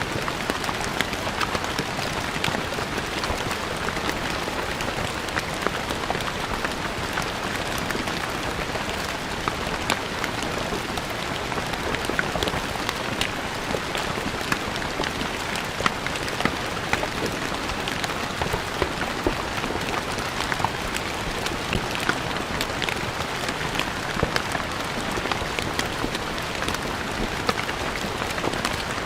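Steady rain falling on stone paving, a constant hiss with many sharp individual drop splats scattered through it.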